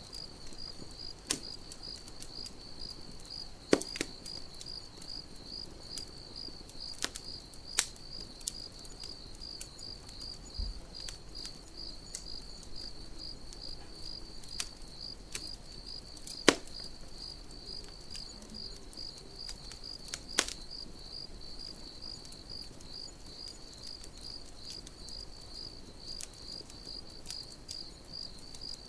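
Crickets chirping in a steady, evenly pulsed high trill, with a campfire crackling: sharp pops scattered through, a few much louder than the rest.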